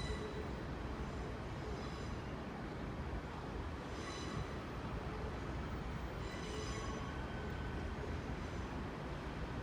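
Hitachi Class 802 IET train pulling slowly into the platform: a steady low rumble, with a high-pitched wheel squeal coming back about every two seconds.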